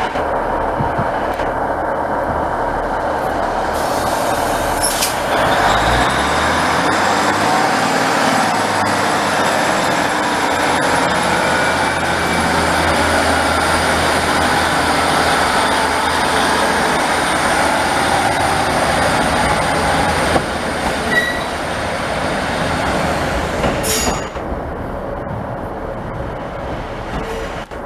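A train running through, with the rumble of wheels on rail and a steady, high-pitched squeal of wheels on the track. The noise drops away suddenly near the end.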